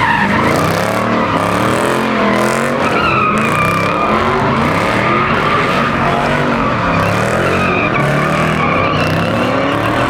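A car engine revving hard and unevenly while its tires squeal continuously, as in a burnout or donuts. The engine pitch rises and falls over the squeal.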